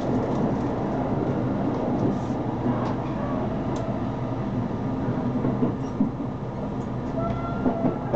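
Steady running noise of an electric commuter train heard from inside the passenger car while it is moving, wheels rumbling on the rails with a few faint clicks.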